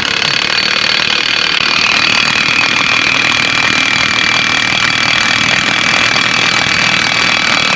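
1/2-inch impact wrench fitted with a Rotabroach Site Hero cutting tool, running steadily as it enlarges a hole in metal: a constant high whine over a hiss of cutting.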